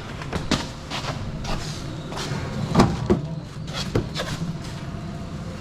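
Pickup truck's tailgate being tried for clearance: several sharp metal clunks and knocks over a low steady rumble.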